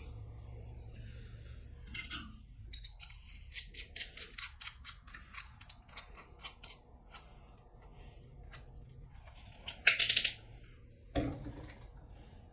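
Cordless drill and screws being handled: a run of quick clicks for a few seconds, a short loud buzz about ten seconds in, then a thump.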